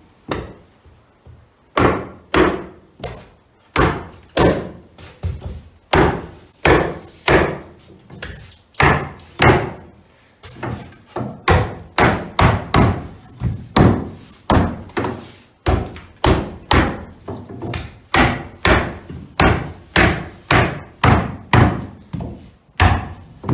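Repeated thuds, about one to two a second, of a stuck rigid foam insulation panel being knocked into place in the shed wall framing.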